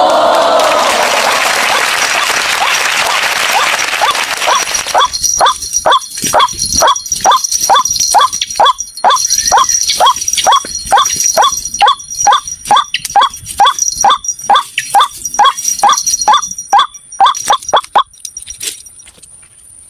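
White-breasted waterhen calling. It opens with about five seconds of dense, harsh calling, then gives a long run of repeated short call notes, about two and a half a second, that stops about 18 seconds in. A steady high insect trill runs underneath.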